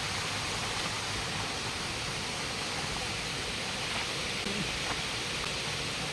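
Waterfall's steady rush of falling water, an even noise with no breaks.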